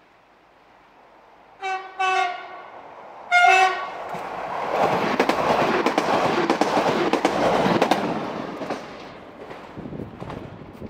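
Regional passenger train sounds its horn in three short blasts as it approaches, the first two close together. It then passes close by, its wheels clacking over the rail joints, and the noise fades after about five seconds.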